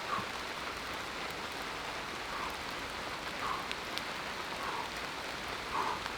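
Steady rain falling, an even hiss, with faint soft sounds repeating about once a second.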